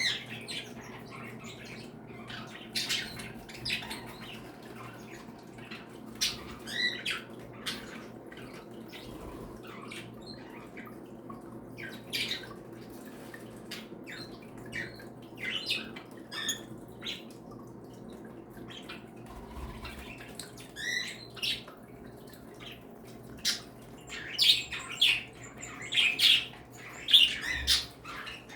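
A mixed flock of pet parakeets and finches (budgies, cockatiels, Bourke's parakeets, canaries and Java sparrows) chirping and squawking in short, scattered calls, busiest near the end. A steady low hum runs underneath.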